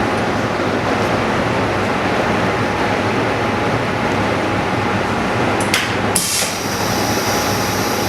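An OCA vacuum laminator running with a steady mechanical noise and a faint constant tone. About six seconds in there is a click, followed by a short rush of air.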